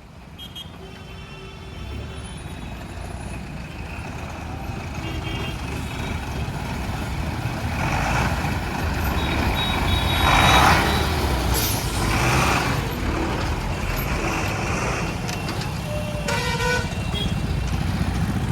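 Heavy vehicles rumbling past at a railway level crossing, getting steadily louder, with several short horn toots.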